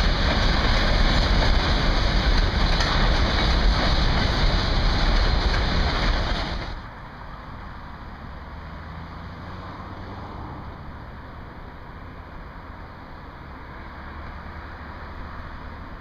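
Freight train of hopper wagons rolling past close by: a loud, steady rumble of wheels on rails. About seven seconds in it cuts off abruptly to a much quieter steady rumble from a distant freight train of tank cars.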